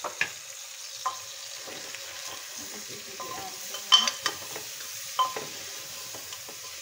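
Goat meat and tomatoes sizzling in an open pressure cooker as a metal spoon stirs them, striking the pot with sharp clinks about five times, loudest about four seconds in.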